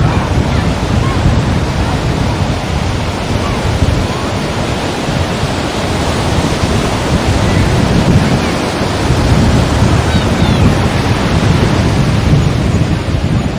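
Sea surf, waves breaking and washing against rocks in a continuous loud wash. The low rumble of wind on the microphone is mixed in, and the surge swells around the middle and again toward the end.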